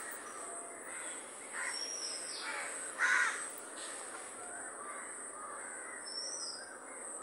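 Birds calling outdoors: a few harsh calls, the loudest about three seconds in, with short high chirps from a smaller bird around two seconds in and again near the end.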